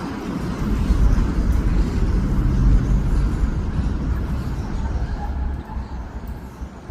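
Low rumble of passing city traffic, easing off about five and a half seconds in.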